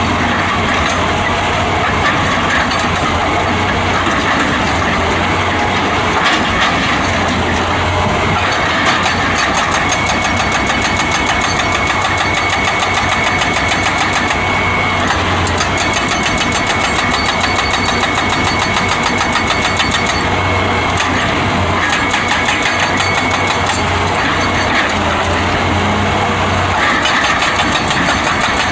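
Excavator's diesel engine running steadily at work, without a break.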